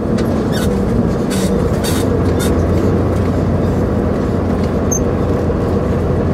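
Semi truck's engine and road noise heard inside the cab while driving: a steady low hum with a few faint knocks and rattles.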